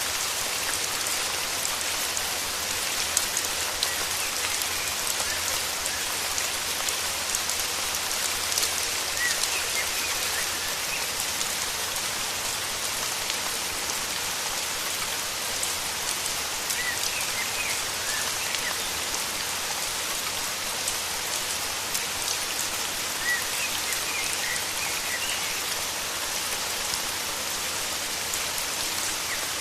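Steady rain falling with many individual drops pattering. Small birds chirp briefly a few times over it, in short clusters of high notes.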